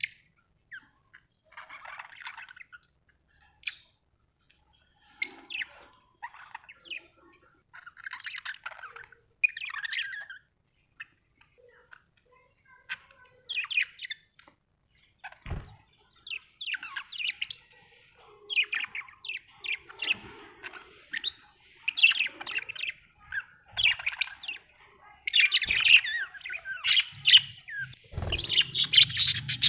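Budgerigars chirping in short high calls, scattered at first and coming thick and fast in the second half, with one soft knock about halfway through.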